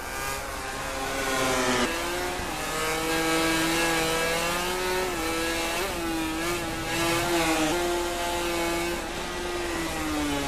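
MotoGP racing motorcycle engine running hard. Its pitch climbs and drops sharply twice, about two seconds in, as it shifts up, then holds a fairly steady high pitch with small rises and dips, and falls back near the end.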